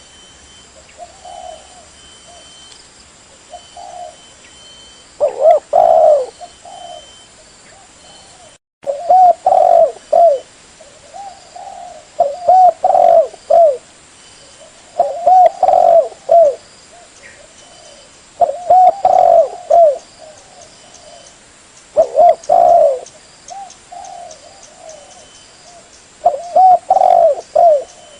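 Spotted dove cooing over and over: a loud phrase of coos every three to four seconds, with softer coos in between. It is a lure call for drawing in wild spotted doves.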